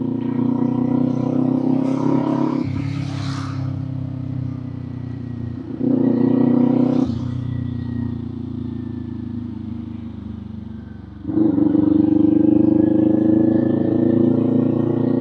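Kawasaki Z400 parallel-twin engine with an aftermarket muffler, heard from the rider's seat while riding. The throttle rolls off about two and a half seconds in and opens again briefly around six seconds. The engine then falls away in pitch and pulls again from about eleven seconds, its pitch slowly rising as it accelerates.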